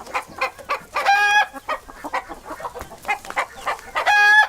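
A hen clucking in a quick run of short clucks, broken twice by a longer, steady-pitched squawk, about a second in and near the end.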